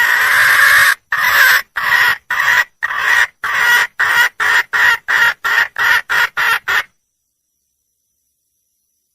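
Red junglefowl hen calling for a mate: one long call, then a run of about a dozen short clucks that come faster and faster, stopping about seven seconds in.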